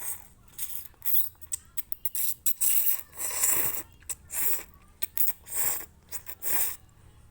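Close-up eating sounds of instant noodles being slurped and chewed: an irregular run of short, noisy smacks and slurps.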